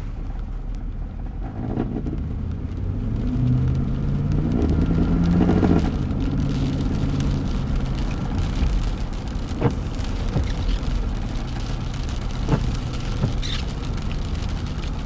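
Inside a car cabin in rain: the engine and road noise hum, rising in pitch for a few seconds as the car speeds up, while dry wiper blades squeak and thump across the wet windshield every few seconds. The wipers squeak because the rubber has dried out after the car sat unused for months.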